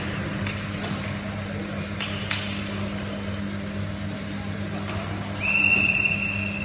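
Volleyball game in a gym hall: a steady low hum, a few sharp smacks in the first two and a half seconds, and a single high, steady squeal lasting about a second near the end.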